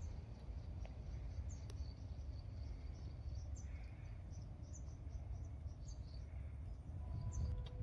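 Small birds chirping in short high notes, scattered irregularly, over a steady low rumble. Near the end a faint steady tone at two pitches begins.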